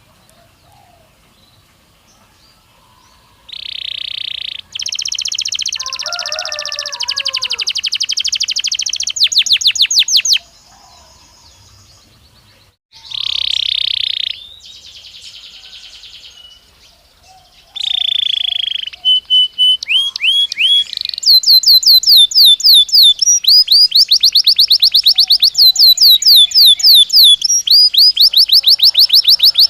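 Belgian canary singing. After a few quiet seconds it sings phrases of buzzy held notes and fast trills, and from about two-thirds of the way in a long run of rapid repeated sweeping notes.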